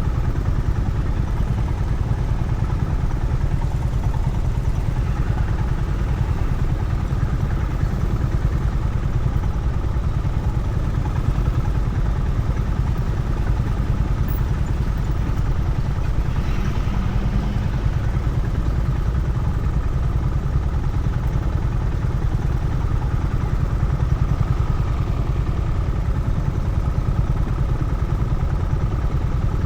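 Honda CB350RS's air-cooled single-cylinder engine running steadily while the motorcycle is ridden, over a heavy, even low rumble.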